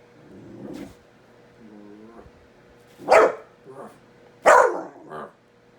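A dog barking at a kitten: two loud, sharp barks about three and four and a half seconds in, each followed by a shorter, softer one, after some quieter low sounds at the start.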